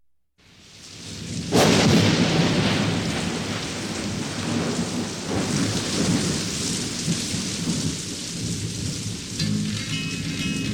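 Thunderstorm: steady rain fading in, with a sharp thunderclap about a second and a half in, the loudest moment. Near the end guitar notes start over the rain.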